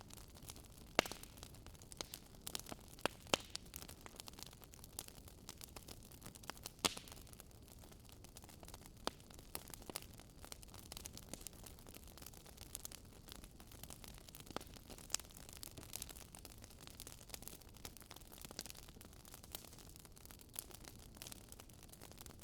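Wood fire burning in a fireplace, crackling with irregular sharp pops over a faint steady hiss.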